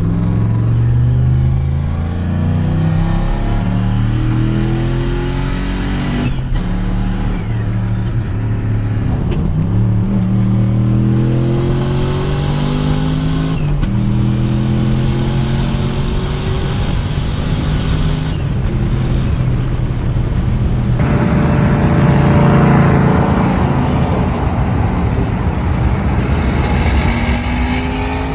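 BMW 540i's turbocharged engine pulling under acceleration from inside the car. Its pitch climbs steadily and drops back at each upshift, several times over.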